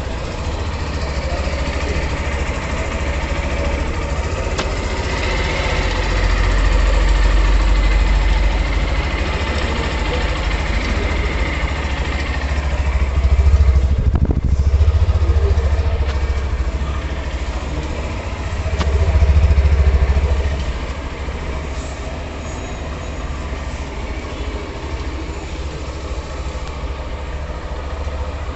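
Hero Thriller 160R's single-cylinder engine idling, with the revs raised and let fall back three times.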